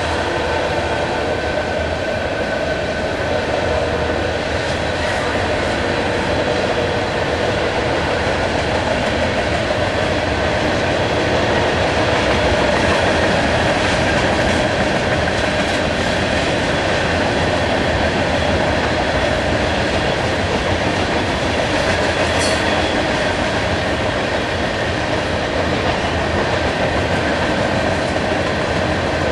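Freight train tank cars rolling past: a steady, loud noise of steel wheels on rail, with faint thin high tones running over it and one brief high squeak about two-thirds of the way through.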